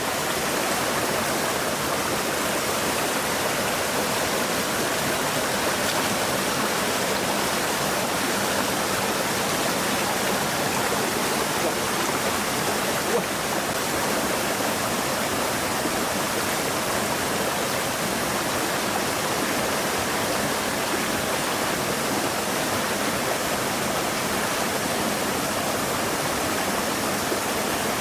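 Flowing stream water rushing steadily, with one brief click about halfway through.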